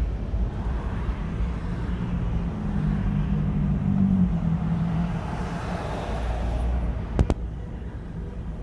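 Car engine and road noise, a steady low rumble with a low hum that swells through the middle. Two sharp clicks come close together about seven seconds in.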